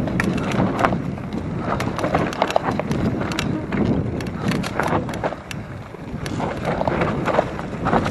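Mountain bike descending a rough trail: wind on the microphone and tyre noise, with frequent clicks and rattles from the bike over bumps. The noise eases a little past the middle, then picks up again.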